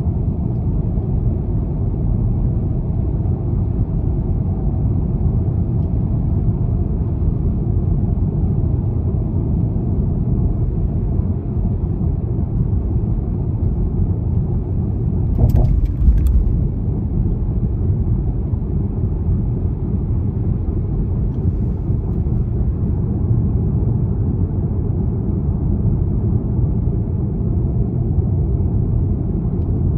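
BMW 320d xDrive's four-cylinder diesel car driving at a steady speed, a constant low rumble of engine and road noise. About halfway through there is a brief cluster of sharp clicks with a short bump in the rumble.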